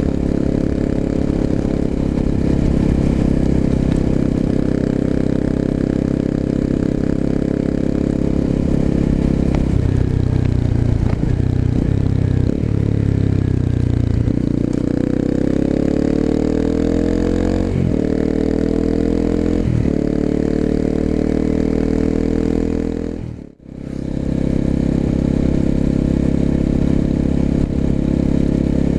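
Exhaust of a 250cc single-cylinder four-stroke motorcycle with an aftermarket muffler, heard while riding. It runs steadily, eases off around ten seconds in, then climbs in pitch under acceleration, with brief breaks about eighteen and twenty seconds in that sound like upshifts. The sound fades out and back in briefly at about twenty-three seconds.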